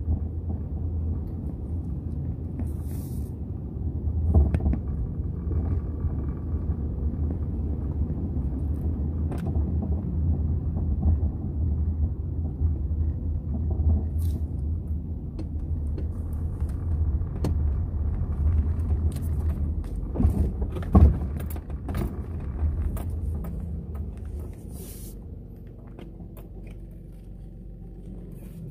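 Strong gusty wind buffeting the microphone as a heavy low rumble, with a few knocks. It eases off near the end.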